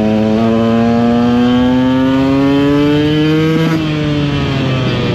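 KTM EXC 125 SixDays two-stroke single-cylinder enduro engine under throttle, its pitch climbing steadily for nearly four seconds as the bike accelerates, then dropping sharply and running on at a lower, steady pitch.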